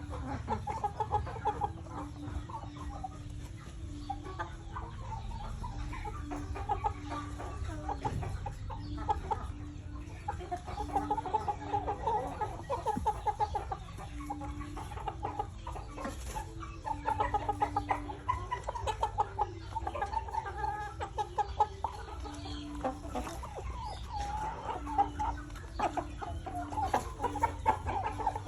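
Chickens clucking and calling in quick runs of short notes throughout, over a steady low rumble.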